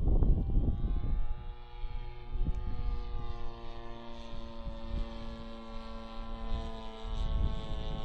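Radio-controlled Piper Cub's G26 two-stroke gas engine and 18x8 propeller droning in flight, the pitch rising over the first few seconds and then holding steady. Wind buffets the microphone about the first second.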